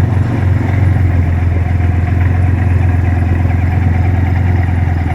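Corvette V8 engine idling steadily: a loud, even, low engine note with no revving.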